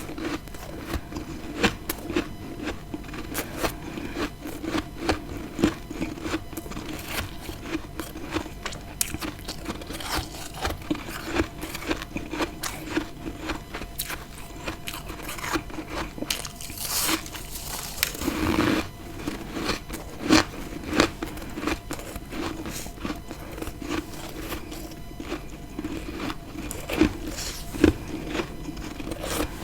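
Freezer frost being bitten and chewed close to the microphone: a steady run of crisp, irregular crunches, with a longer, coarser crunch about two-thirds of the way through.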